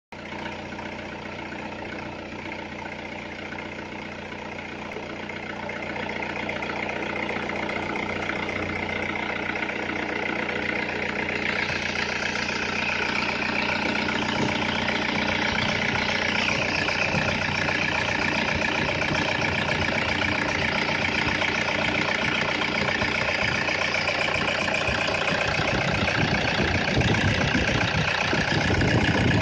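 2013 Toyota Innova's four-cylinder turbodiesel engine idling steadily, growing louder over the first dozen seconds and then holding even.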